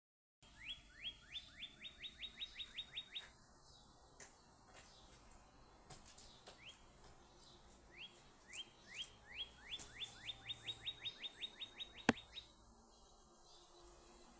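A songbird singing: a run of short rising whistled notes that speed up and close together, sung once about a second in and again, longer, from about six seconds in. A single sharp click sounds just before the second song ends.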